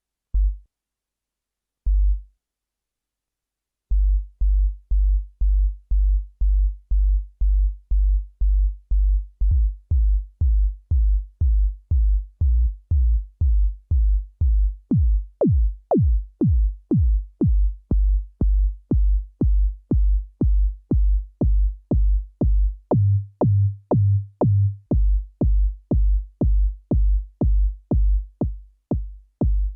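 Synthesized electronic kick drum from Ableton's Operator: two single hits, then a steady loop of about two kicks a second, each a short, deep thump with a click on top. The click gets brighter partway through, and for a couple of seconds near the end the thump sits higher in pitch.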